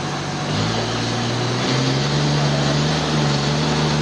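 A sawmill's engine running steadily over a broad hiss. Its note shifts about half a second in and steps up in pitch about a second and a half in.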